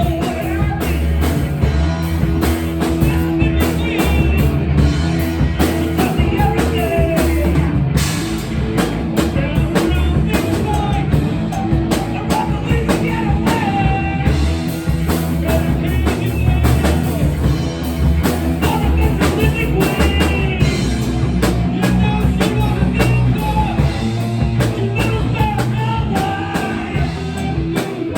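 A rock band playing: a drum kit keeping a steady beat under electric guitars, loud and continuous.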